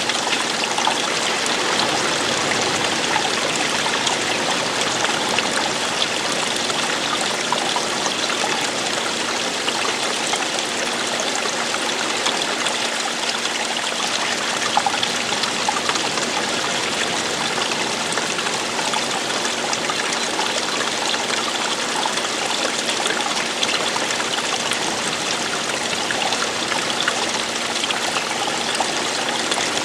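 Running water: a stream flowing over rocks in a steady, unbroken rush of splashing and trickling.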